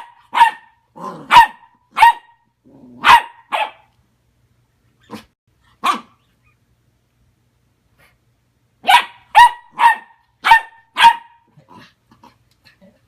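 A puppy barks in short, high-pitched barks that come in bursts. A quick run of about six barks comes near the end.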